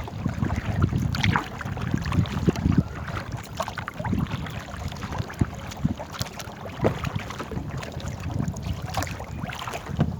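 Small boat being paddled on a river: irregular splashes, knocks and clicks over low rumbling thumps.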